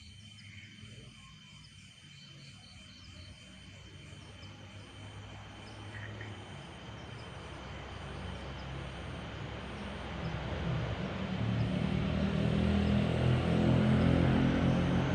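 Night insects chirping faintly in a steady repeating pattern, then a low rumbling drone swells slowly through the second half and ends much louder.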